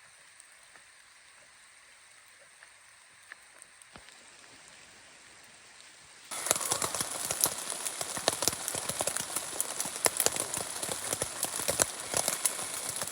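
Rain falling: a faint steady hiss at first, then, about six seconds in, suddenly loud, dense pattering of close drops.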